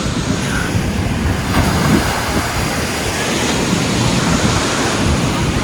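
Ocean surf washing and breaking on a beach as a steady rushing noise.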